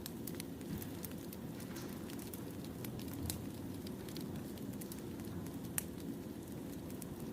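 Burning firewood crackling: a steady low rumble of flames with scattered sharp pops and snaps, one louder pop near the end.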